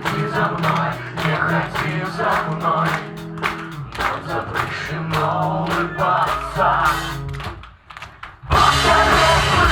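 Live alternative rock band playing, drums keeping a steady beat over bass and guitar. About three-quarters in the music drops out almost to silence for under a second, then the full band comes back in louder.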